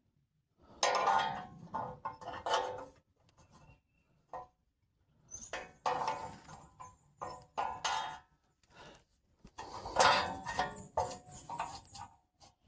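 Hand tools clinking and scraping against metal as a tractor's bracket bolts are worked loose, in three spells of rapid, irregular clicks and scrapes with short pauses between.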